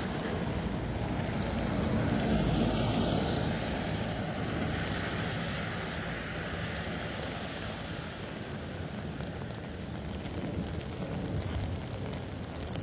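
Steady rain with the hiss of car tyres on the wet road, swelling as a vehicle passes about two seconds in and then easing off.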